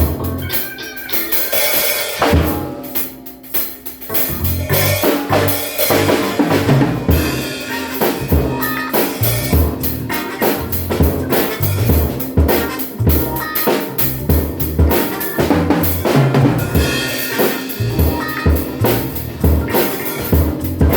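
ADW Astro 5 drum kit played in a steady groove, with bass drum, snare and rimshots over accompanying music. It thins out briefly about two seconds in and comes back fuller about four seconds in.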